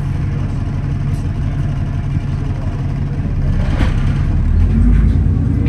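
Alexander Dennis Enviro400 double-decker bus heard from inside: the engine runs with a deep rumble, then builds and rises in pitch about two-thirds of the way through as the bus pulls away, with a brief rattle just before.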